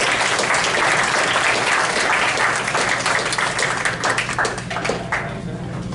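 Audience applauding and clapping, strongest through the first few seconds and thinning toward the end.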